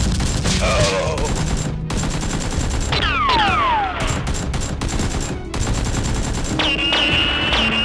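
Rapid automatic gunfire sound effects, a dense fusillade of shots. Descending whistling tones cut through about three seconds in and again near the end.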